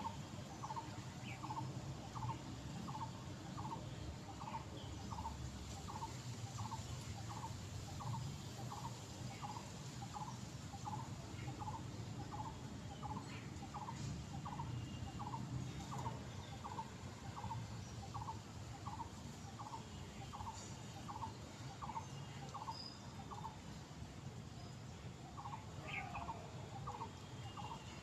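A bird calling one short note over and over at a steady pace, a little faster than one a second, with fainter chirps from other birds and a low steady background rumble.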